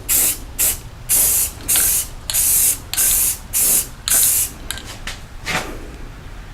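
Rust-Oleum aerosol spray-paint can spraying in about nine short hissing bursts in quick succession, stopping about a second before the end.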